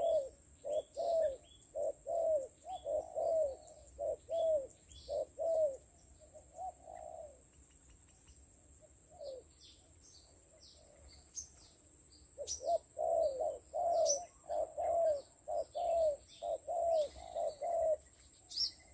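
Spotted doves cooing: runs of short, arched coos in quick succession, a lull of several seconds, then another run starting about two-thirds of the way in. Small birds chirp faintly at a higher pitch.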